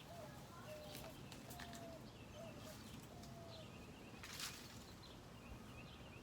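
Faint birdsong: a series of short, low whistled notes, one every half second or so, with higher chirps mixed in. A few brief clicks or rustles come through, the loudest about four seconds in.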